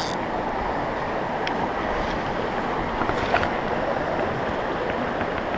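Steady rushing water of a mountain creek and waterfall, with a couple of faint clicks.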